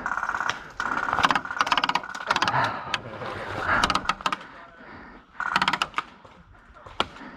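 Airsoft electric guns firing full-auto bursts: about four short strings of rapid shots, each with a motor-and-gearbox whine under it. A single sharp crack comes near the end.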